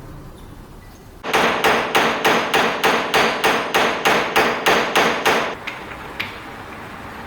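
Hammer blows struck in a fast, even rhythm, about three a second, for about four seconds, then stopping, followed by a couple of light taps.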